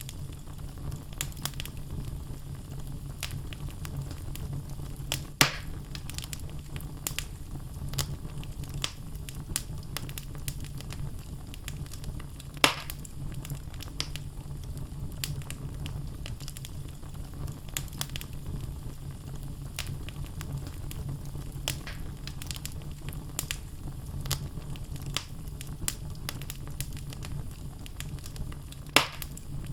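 Wood logs burning in a fireplace: a steady low rumble of flames with frequent small crackles, and three louder pops, about five seconds in, about thirteen seconds in and near the end.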